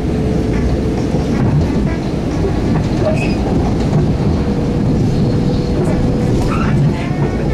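Long Island Rail Road commuter train running along the track: a steady loud rumble with a faint steady whine and a few brief high squeaks, about three seconds in and again near the end.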